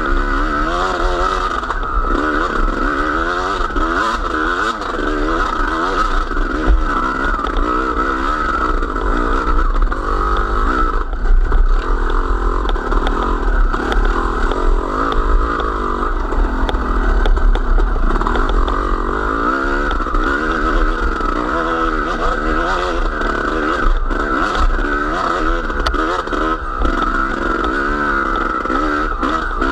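A small vehicle engine running continuously, its pitch rising and falling every second or so as it is throttled, with a heavy low rumble.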